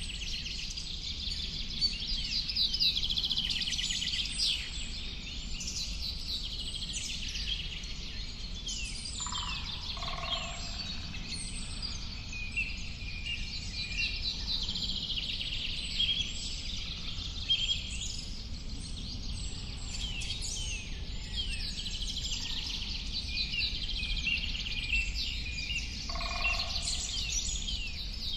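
A chorus of many birds singing, with dense overlapping high chirps and trills throughout and a few lower calls standing out twice, over a steady low background hiss.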